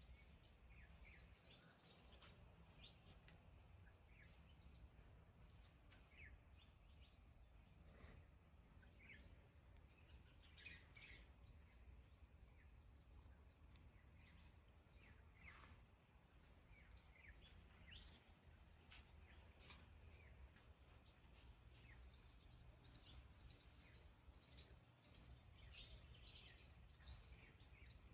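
Faint birdsong: many short, scattered chirps from several birds, with two louder sharp calls about nine and fifteen seconds in, over a low steady rumble.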